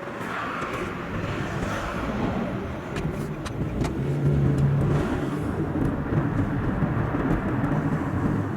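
Car driving along a road: steady engine and tyre rumble, with swells of rushing noise about a second in and again around five seconds.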